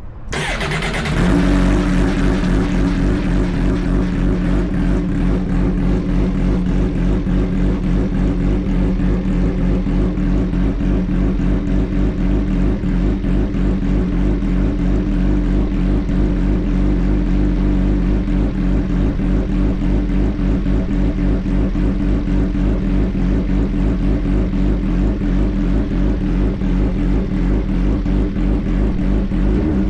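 Suzuki GSX-R1000 inline-four motorcycle engine heard through its exhaust, coming up in the first second and then idling steadily with an even pulsing beat.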